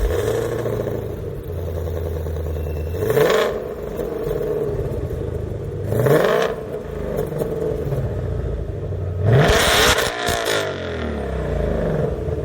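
1994 Toyota Hilux pickup engine idling, revved up three times about three seconds apart, each rev rising in pitch and falling back to idle.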